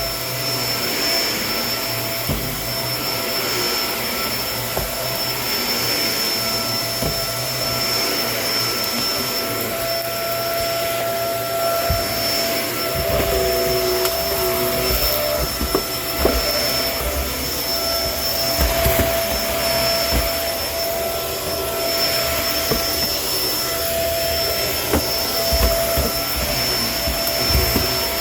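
Kenmore vacuum cleaner running steadily with a constant motor whine, being pushed over the floor, with scattered small knocks and thuds as it passes over things.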